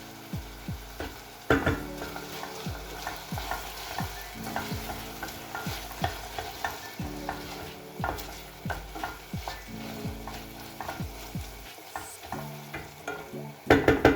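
Food sizzling in a frying pan while it is stirred, with frequent short clicks and scrapes of a utensil against the pan at an uneven pace.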